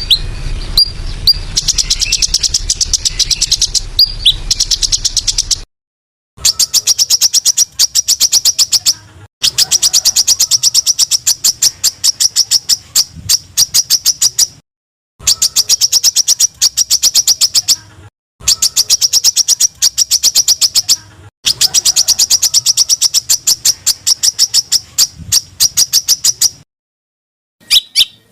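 Small songbird calls. Scattered high chirps over a low background hum at first; then, from about six seconds in, bouts of rapid, evenly spaced, sharp high notes, the fast 'tembakan' rattle prized in bird-tutor recordings, broken by short clean silences between the edited bouts.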